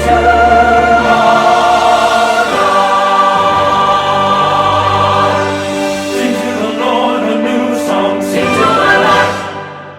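Choir singing a worship song with instrumental accompaniment, fading out near the end.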